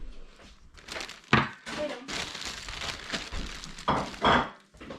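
Groceries being unpacked by hand: a shopping bag and packaging rustling, with items knocked down on a surface, the sharpest knock about a second in.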